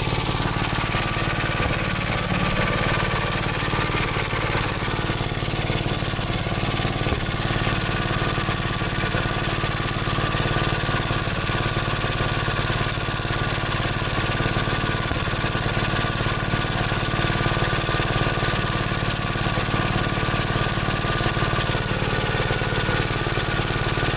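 1973 Gravely C8 engine running steadily, with occasional pops from the exhaust. The popping is a misfire that the owner takes for an ignition problem.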